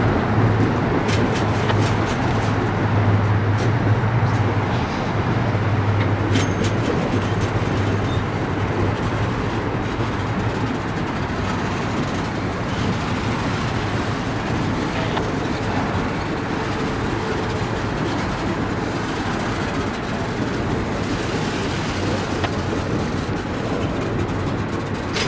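A train rolling past with a steady rumble of wheels on rail. A low steady drone is strongest in the first half and fades after about ten seconds, and a few sharp clicks come in the first seven seconds.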